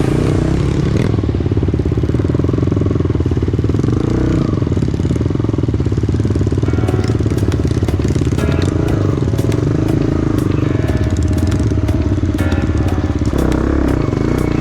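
Trail motorcycle engine running steadily, its rapid firing pulses even throughout.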